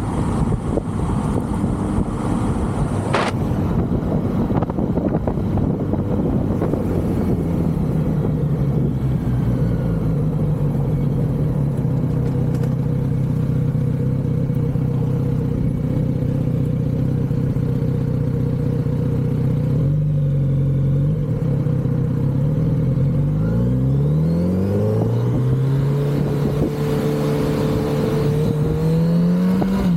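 Kawasaki Z900RS's inline-four engine through its stock exhaust, heard while riding. It holds a steady speed for a long stretch, drops off about two-thirds of the way through, then rises in pitch as the bike accelerates, and climbs again near the end.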